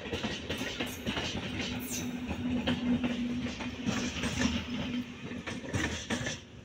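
Indian Railways passenger coaches running past at speed, their wheels clattering quickly over the rail joints with a steady rushing noise. A steady low hum runs through most of it, and the sound falls away sharply near the end.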